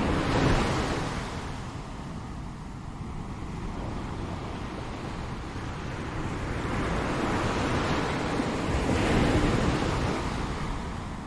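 Ocean surf: a wave breaks just after the start, then the wash swells again to a second break about nine seconds in.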